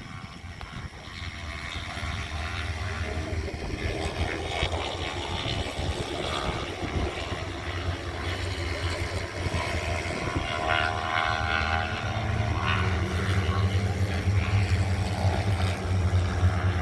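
Racing motorcycle engines heard at a distance over a steady low hum, their notes coming and going as the bikes circulate on track.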